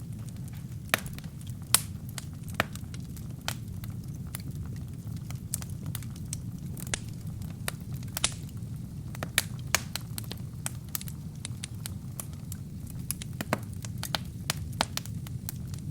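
Burning wood in a fireplace crackling: irregular sharp pops and snaps over a steady low hiss of flame.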